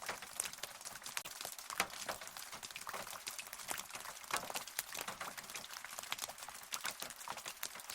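Rain falling steadily, with many close, sharp drips and taps landing irregularly over a soft hiss.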